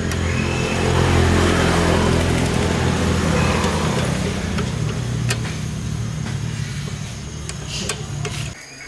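Restored old motorcycle's engine running, revving up a little about a second in and then running steadily until it is shut off near the end.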